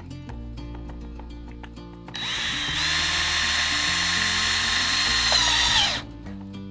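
Power drill running for about four seconds, its whine rising as it spins up and falling away as it stops, over background music.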